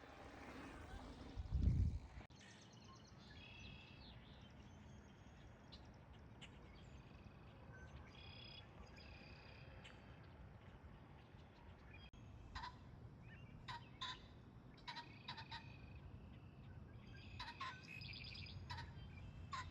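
Birds chirping and calling over a steady low background, with a short dull thump about two seconds in. From about halfway, short sharp calls repeat every second or so.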